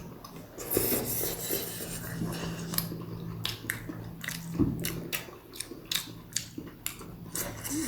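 Close-miked chewing and mouth smacks of someone eating a big steamed momo: a string of short wet clicks, a couple a second.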